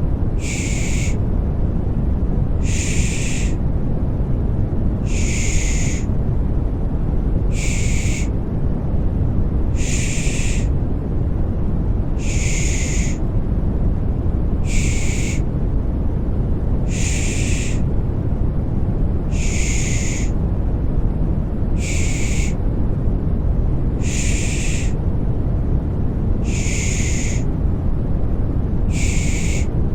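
Rhythmic 'pış pış' shushing for settling a baby: a 'shh' about every two seconds, alternating longer and shorter, over a steady, deep, rushing white noise.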